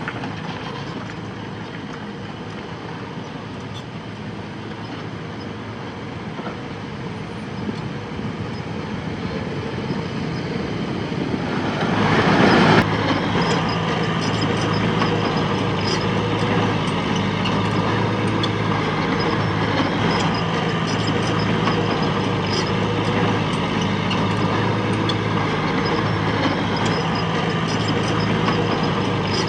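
Heavy machine's diesel engine running steadily and growing louder. A brief rush of noise comes about twelve seconds in, and after it the engine runs louder with a steady low hum.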